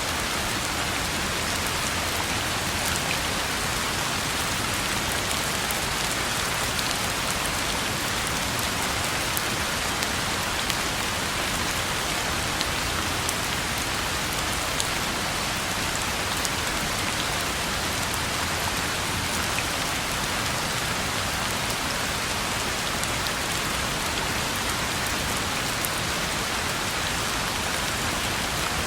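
Steady rain falling on a road, an even hiss with faint scattered drop ticks.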